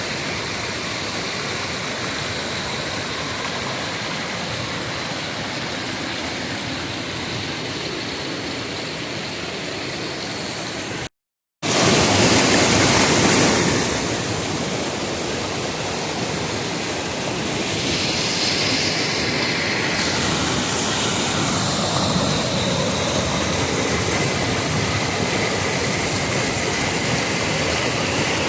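Rushing water of a waterfall, a steady hiss. It cuts out for half a second about eleven seconds in, comes back louder for a couple of seconds, then settles again.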